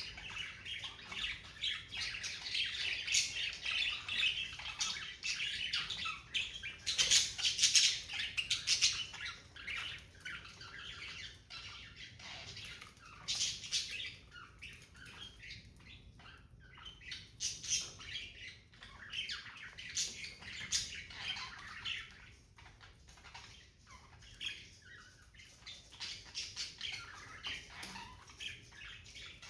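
Budgerigars chattering and squawking continuously in busy, overlapping high-pitched calls, with a loud flurry of sharp squawks about seven to nine seconds in.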